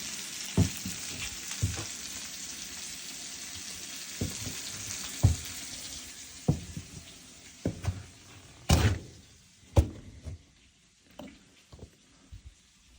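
Fresh fish sizzling as it fries in a pan. The hiss fades away over the first half, with scattered knocks and taps throughout, the loudest about nine seconds in.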